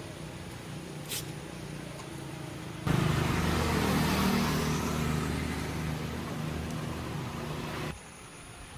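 Motorcycle engine running: a steady low hum that suddenly gets much louder about three seconds in, holds for about five seconds, and cuts off abruptly near the end.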